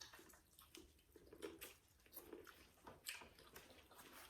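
Faint wet chewing and mouth smacks of someone eating a seafood boil, with scattered small clicks and squishes.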